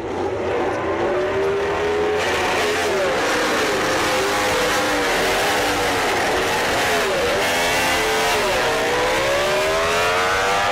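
MotoGP racing motorcycle engine at high revs, its pitch dropping and climbing again and again through gear changes, with a deeper dip about nine seconds in followed by a long rising pull. A steady rushing noise runs under it from about two seconds in.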